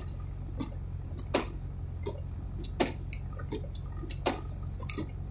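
Steady low hum of an idling vehicle heard from inside the cab, with scattered sharp taps and clicks about every second or so.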